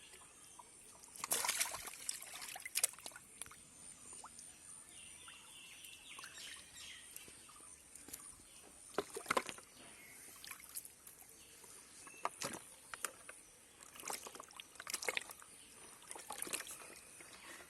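Water splashing and trickling in irregular bursts, a few seconds apart.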